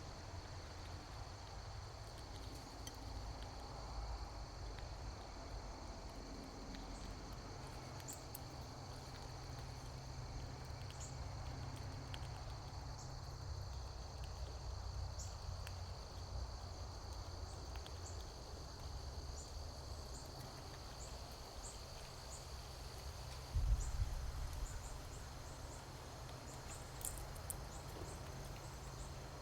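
Steady high-pitched insect drone that cuts off about three-quarters of the way through, over a low rumble, with a single thump at that point.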